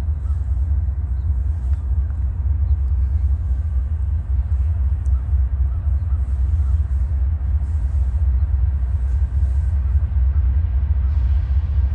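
Steady low rumble of an approaching Norfolk Southern train still far down the line, growing slightly louder near the end.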